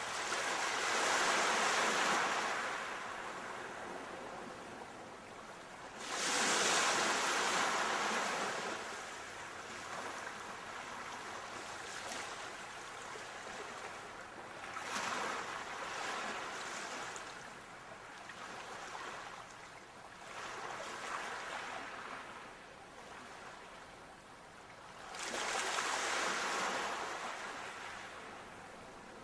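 Sea waves breaking and washing in, the surf swelling and ebbing in slow surges. Three big breakers come about a second in, at about six seconds and near the end, with smaller ones between.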